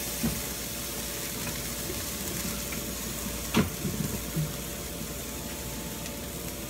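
Spices and coriander leaves sizzling steadily in hot oil in a karahi, with a sharp click about three and a half seconds in and a few light knocks just after.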